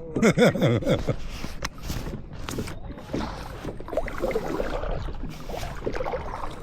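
Kayak paddle dipping and splashing in lake water, with irregular sloshing and dripping strokes; a short voice is heard in the first second.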